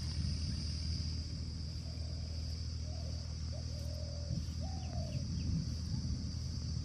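A few faint short bird calls, bending in pitch, in the middle, over a steady low hum.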